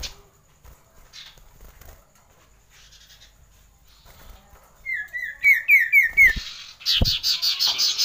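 Common iora calling: a quick run of about six short whistled notes about five seconds in, then a fast rolling trill near the end, with a couple of soft thumps in between.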